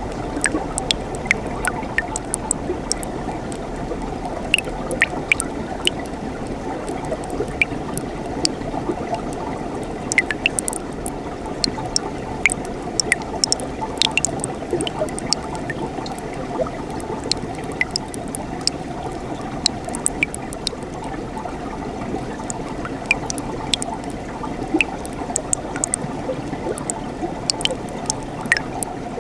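Mountain stream flowing: a steady rushing burble of running water with many small splashes and plinks scattered through it.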